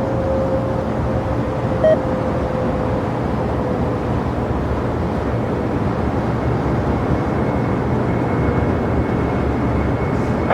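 Jet airliner engines running steadily, a broad rushing noise with a faint whine that slowly falls in pitch. A brief click about two seconds in.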